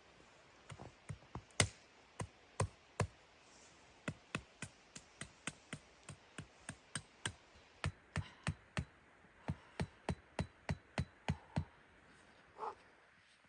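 A long series of sharp knocks, about two to three a second and uneven in strength, with one softer, longer sound near the end.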